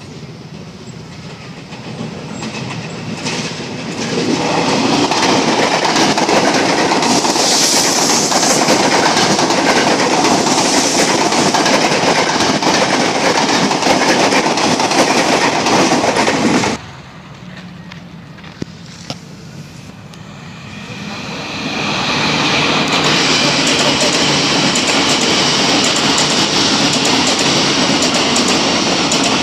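Electric commuter trains passing close by at speed, the rush of wheels on rails and train bodies. The first train's noise builds about four seconds in and cuts off abruptly near the middle. A second train passes from about two-thirds of the way through.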